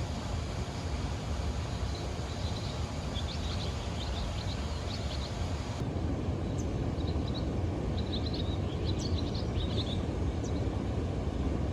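Steady outdoor background noise with a heavy low rumble. Faint short high chirps come in two spells, around the middle and in the second half. The background changes abruptly about six seconds in.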